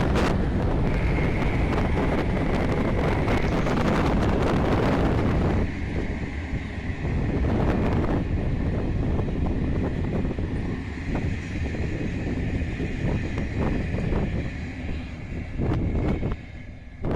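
Train hauled by an ONCF E-1250-class electric locomotive running past, a rumbling noise with a thin steady high whine, the overall sound dropping somewhat after about six seconds. Wind buffets the microphone throughout.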